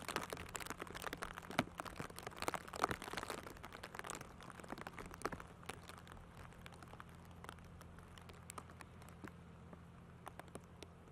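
Raindrops pattering and crackling close to the microphone in a windy rainstorm: a dense run of sharp ticks for the first few seconds, thinning to scattered drops, over a faint steady low hum.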